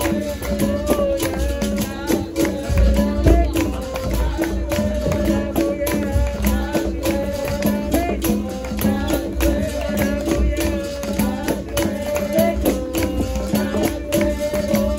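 Live capoeira roda music: berimbaus playing a repeating two-note rhythm with caxixi rattles, over pandeiro jingles and drum beats, with a voice singing a wavering line.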